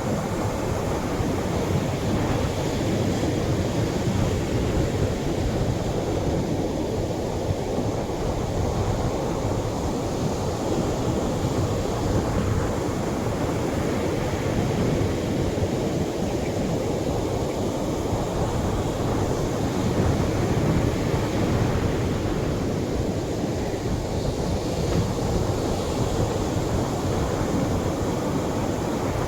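Atlantic surf washing gently onto the shore, a continuous steady rush of waves with no single distinct crash.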